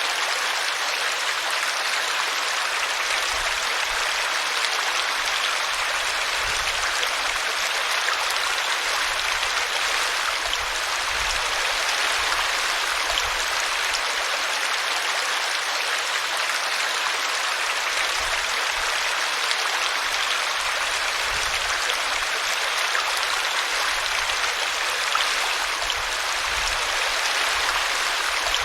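Small brook babbling steadily as the water spills over a tree root.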